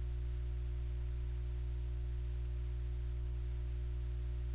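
Steady low electrical hum, even and unchanging, with no other sound standing out.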